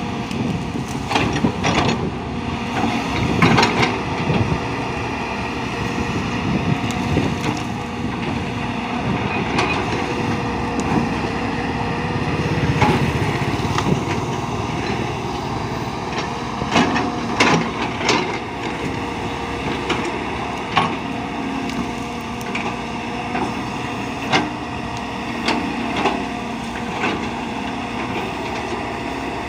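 Engine of heavy working machinery running steadily, with irregular clanks and knocks on top.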